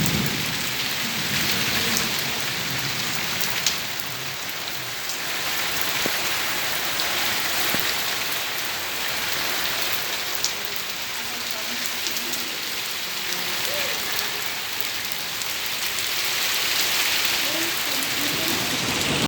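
Steady rain falling, with a couple of sharp drop clicks.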